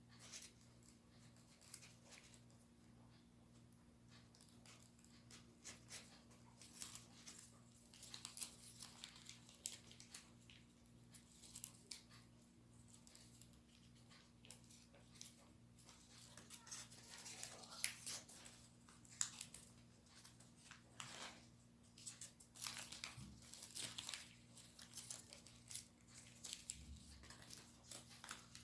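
Sheet of origami paper being folded and creased by hand: soft, irregular rustling and crinkling, busier after the first few seconds.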